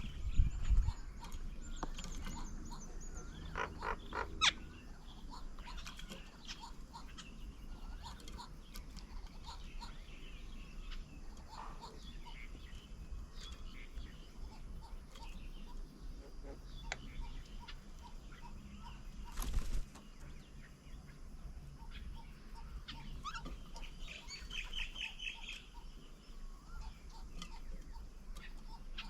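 Wild birds calling and chirping at a garden bird table, with many short scattered calls and a rapid trill near the end. A short, loud rustle or thump stands out about two-thirds of the way through.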